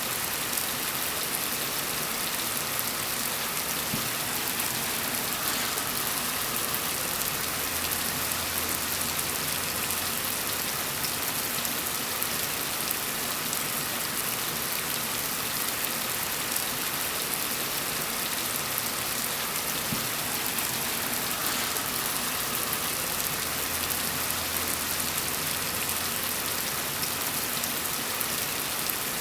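Steady, even rain falling on surfaces, a dense hiss of countless drops.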